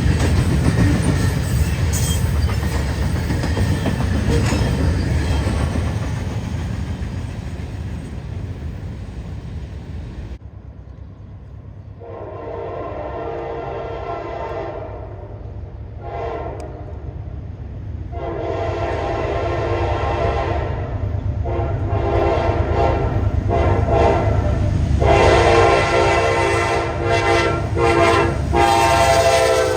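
A train rumbling past, its noise cutting off suddenly about ten seconds in. Then a locomotive air horn sounds a series of blasts, long ones broken by shorter ones, over the low rumble of a train, growing louder toward the end.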